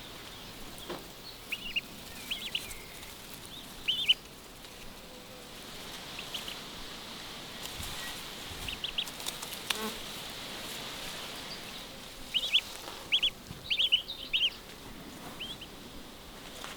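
Small birds chirping in short, scattered bursts, with a quick cluster of chirps near the end, over a faint steady outdoor buzz.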